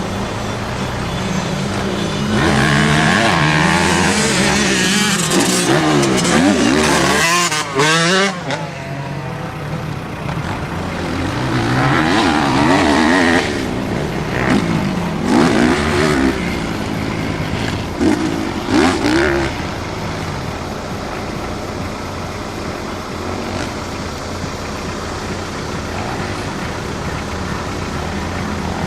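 Motocross dirt bike engines revving up and down, loudest in a long burst a couple of seconds in and a few shorter bursts in the middle, then settling to a steadier, lower drone.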